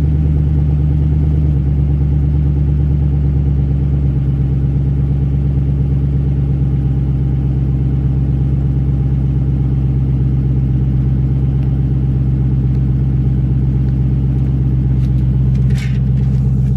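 Dodge Magnum SRT8's 6.1-litre Hemi V8 idling steadily shortly after a cold start, through a straight-piped exhaust with no muffler and a deep, even rumble. A brief click sounds near the end.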